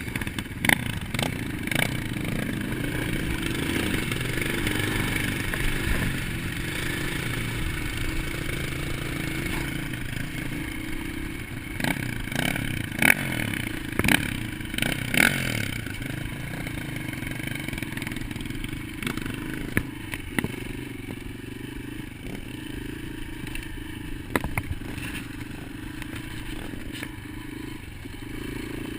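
Dirt bike engine running and revving up and down as it is ridden. Sharp clattering knocks are scattered through it, several close together about halfway through.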